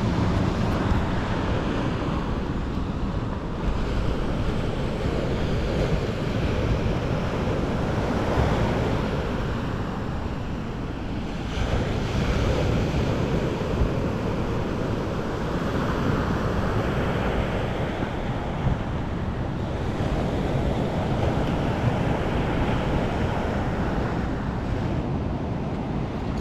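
Sea surf breaking on the shore, swelling and easing every few seconds, with wind rumbling on the microphone.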